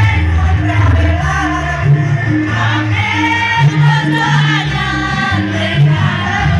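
A choir singing a Javanese pop song over a band, with a steady bass line and short repeated notes about two a second.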